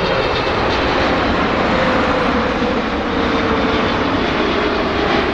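Jet airliner engines, a loud steady rush with a whine that slowly falls in pitch.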